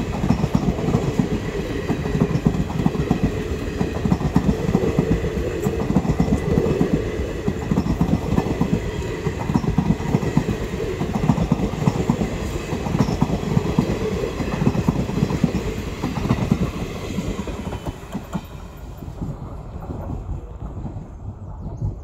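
Passing diesel-hauled express train, its wheels rattling over the rail joints in a dense run of knocks, dropping away about eighteen seconds in as the train moves off.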